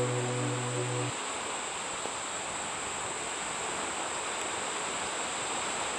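A low droning note with overtones, like a didgeridoo, stops about a second in. Then ocean surf washes steadily, with a thin high-pitched whine running under it.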